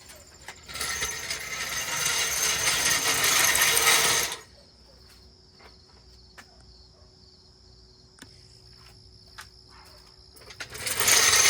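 Rough mechanical rattling for about three seconds starting a second in, and again near the end, over a steady high chirring of crickets.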